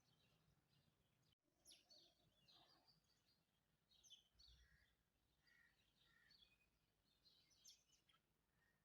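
Faint chirping of several small birds: short, scattered calls, some in quick runs, over quiet background noise.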